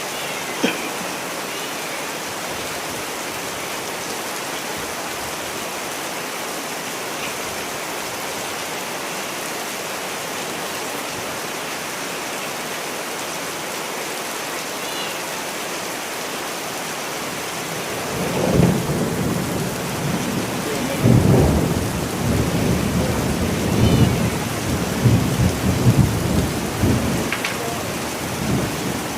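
Steady rain, with thunder beginning to rumble about two-thirds of the way in and rolling on, rising and falling, to the end.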